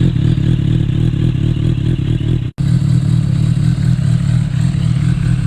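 Suzuki GSR600 inline-four engine running steadily through an aftermarket SBK exhaust, a loud, even, fast-pulsing low rumble. The sound cuts out for an instant about two and a half seconds in, then carries on unchanged.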